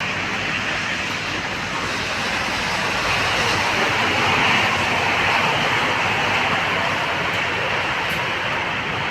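Steady rain falling, an even hiss that grows a little louder around the middle.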